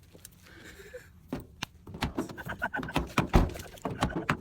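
A car door being worked: a series of clicks and knocks from the handle and latch, then a heavy thunk a little over three seconds in.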